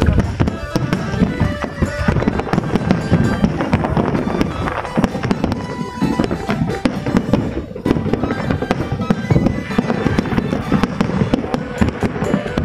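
Fireworks display: a dense run of bangs and crackles going on throughout, with music alongside.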